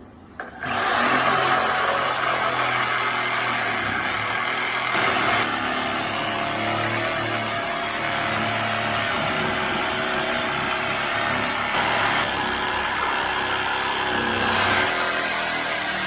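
Milwaukee Sawzall reciprocating saw with a carbide-tooth demolition blade cutting through a wooden railroad tie. It starts under a second in and runs steadily.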